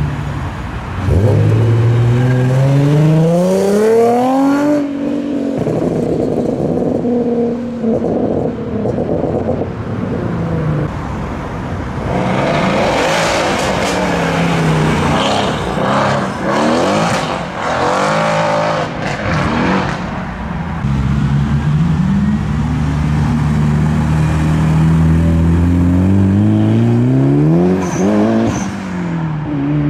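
Modified cars, among them a Nissan 350Z, accelerating hard away one after another, engine notes climbing steeply through the revs several times. A loud, rougher stretch of revving sits in the middle, and a long, steady pull rises slowly near the end.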